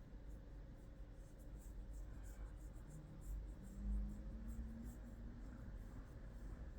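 Faint scratchy rustle of a hand stroking a cat's fur, over the low rumble of a washing machine running. A short low hum rises in pitch about three seconds in.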